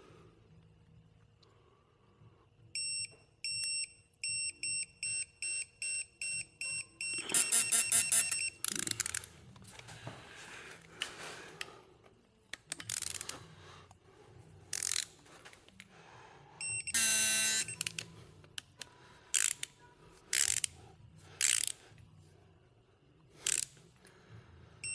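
An electronic tool beeping in short repeated beeps that come faster after a few seconds, then a loud rapid run of clicks. Scattered workshop clicks and clanks follow, with one longer beep about 17 seconds in.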